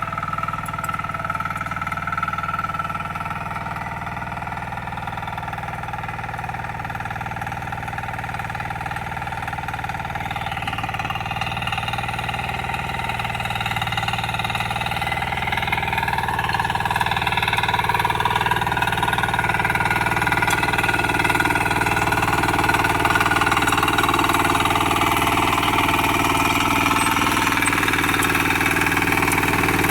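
Diesel power weeder engine with its rear rotary tiller running steadily, growing louder over several seconds partway through, then holding steady at the higher level.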